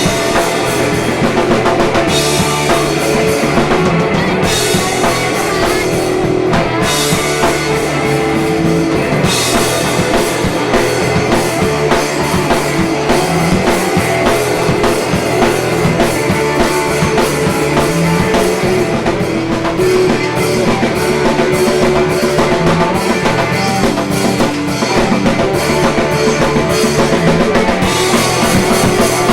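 Small indie-pop rock band playing live: drum kit keeping a steady beat under guitar, with a moving low bass line.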